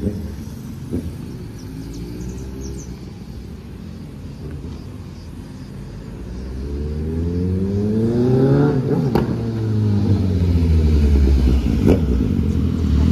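Suzuki GSR 750 inline-four motorcycle with a full CS Racing aftermarket exhaust, ridden on the street: the engine note falls away at first, then rises and grows louder as the bike accelerates toward the microphone. About nine seconds in the pitch turns downward as it goes by, and it stays loud and close to the end.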